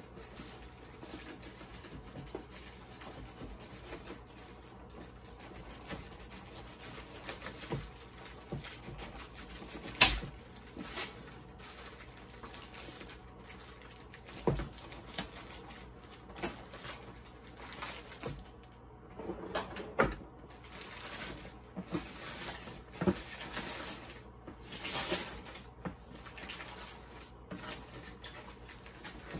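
A package being cut open and unwrapped by hand: scattered small clicks, scraping and rustling of packaging, with a few sharper knocks about ten seconds in and again near twenty, and louder rustling near the end.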